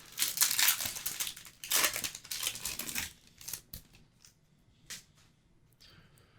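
Plastic wrapper of a baseball card pack crinkling and tearing as it is opened, a dense crackle for about three seconds, then a few faint clicks as the cards are handled.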